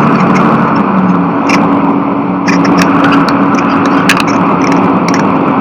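Steady engine and road drone from inside a moving vehicle's cab, with scattered sharp clicks at irregular intervals.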